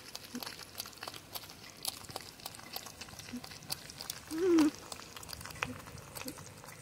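Porcupine eating, with many small crunching clicks of chewing. About four and a half seconds in comes one short whining call that rises and falls: the happy sound a porcupine makes while it eats.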